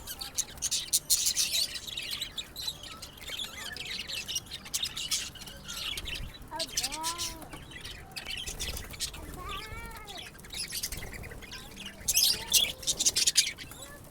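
A colony of birds chirping densely and continuously, a chorus of rapid high calls that swells loudest near the start and again about twelve seconds in. A few lower, drawn-out rising-and-falling calls stand out about seven and ten seconds in.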